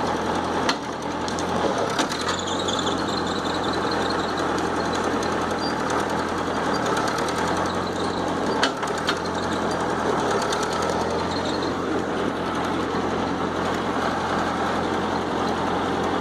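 Tractor engine running steadily, with a few short sharp knocks now and then.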